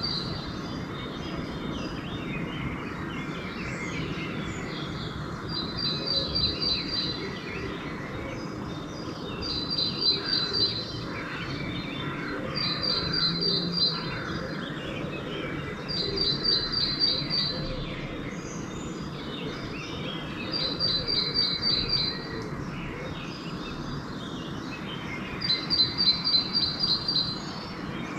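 Pre-dawn bird chorus: one songbird repeats a short, high phrase of rapid, evenly spaced notes about every four seconds, seven times, with other birds calling softly in between. A steady low background rumble runs underneath.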